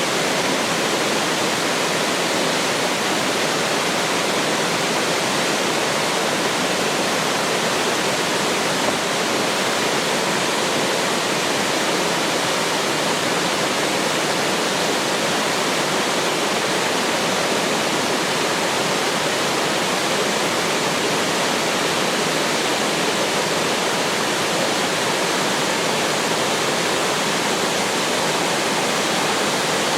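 Waterfall pouring steadily into a mountain stream, an even rushing of falling water.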